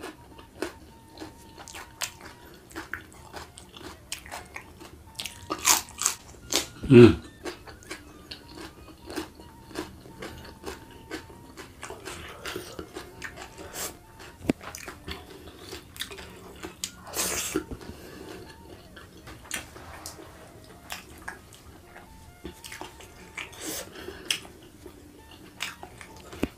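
Close-up eating sounds: a steady run of wet chewing clicks and mouth smacks, with a few louder crunching bites of raw vegetables. A brief low throat sound comes about seven seconds in.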